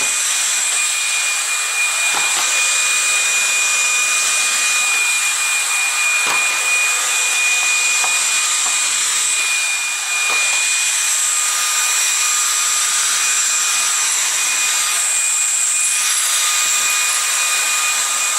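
LG CordZero A9 cordless stick vacuum running steadily as it cleans the floor: a continuous airflow hiss with a steady high motor whine, and a few faint knocks from the cleaner head.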